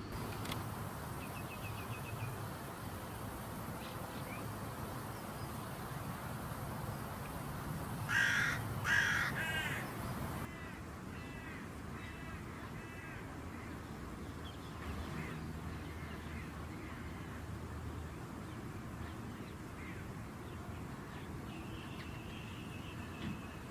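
A crow calls with two harsh caws about a second apart, near the middle. Faint chirps of small birds come and go against a steady low background hum.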